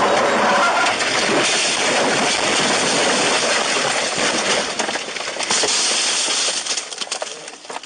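Steady road and wind noise of a moving vehicle, with a faint high whine, fading out near the end.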